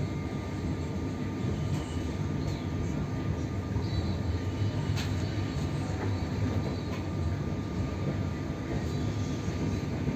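Steady rumble of a moving passenger train heard from inside the carriage, with a few faint clicks over it.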